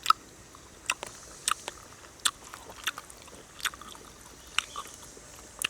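A person chewing and eating, with short crisp crunching clicks, about one every half-second to second, over a faint steady hiss.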